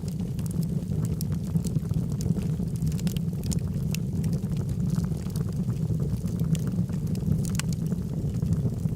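Logs burning in a fireplace: a steady low rumble of flames with frequent sharp crackles and pops from the wood, scattered irregularly throughout.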